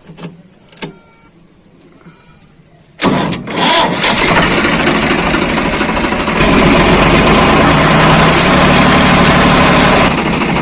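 Swaraj 855 FE tractor's three-cylinder diesel engine starting about three seconds in, after a few short knocks, then running loudly. It gets louder and deeper about halfway through and eases slightly near the end.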